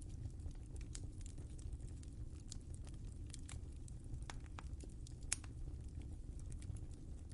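Wood fire crackling in a fireplace: irregular small pops and snaps over a steady low rumble, with one sharper pop a little past five seconds in.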